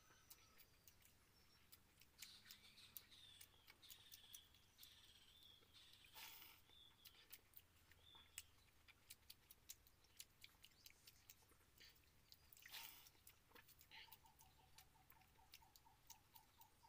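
Quiet eating sounds: faint wet chewing and small mouth clicks as watered rice is eaten by hand from a steel bowl. Faint bird chirps in the first half, and near the end a faint, rapidly pulsing tone.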